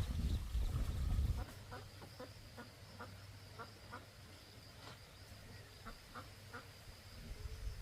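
Ducks quacking in a run of short calls, about three a second, after a low rumble that stops about a second and a half in.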